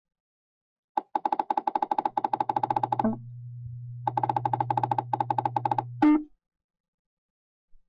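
Electronic beeps from the VTube-LASER measuring software giving audio feedback during the laser scan. A rapid train of short, evenly spaced beeps begins about a second in and runs for two seconds, then a steady low hum sets in. A second rapid beep train follows, ending in a single louder tone about six seconds in.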